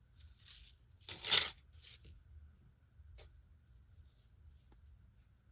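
Costume jewelry being handled and set down: a soft rustle near the start, a short clatter about a second in, then a few light clicks.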